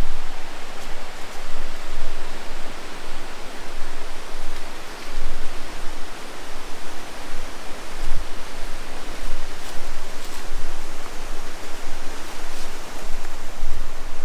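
Rushing creek water, a steady loud hiss, with a few soft low thumps scattered through.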